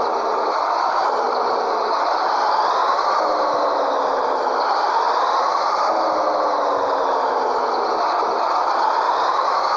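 Scania 113H truck's diesel engine running under load, its note rising and falling again and again every couple of seconds, with steady rattling noise around it.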